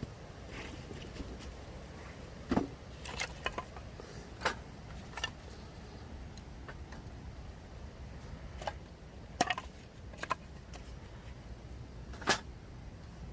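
A dozen or so irregular sharp clicks and knocks over a faint steady background noise, the loudest about two and a half seconds in, near nine and a half seconds and near the end.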